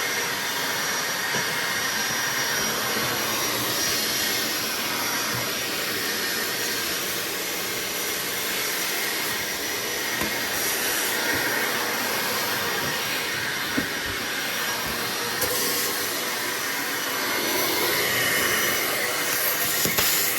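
BAUER 3-gallon, 3 peak HP wet/dry shop vacuum running steadily while picking up debris, with the odd small click of material going up the hose.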